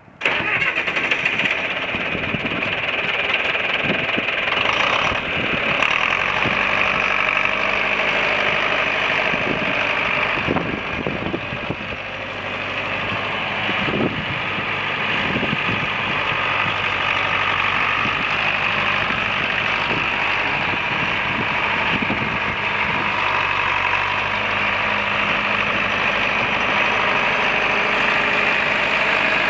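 1966 John Deere 3020 tractor's four-cylinder engine running steadily.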